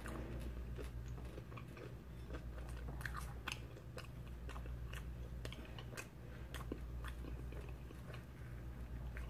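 A person chewing a mouthful of stromboli with mouth sounds: irregular wet smacks and lip clicks, close to the microphone.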